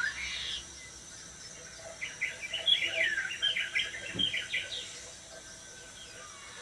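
Small birds chirping and twittering: a call tails off in the first half second, then a quick run of short, high chirps follows from about two to five seconds in.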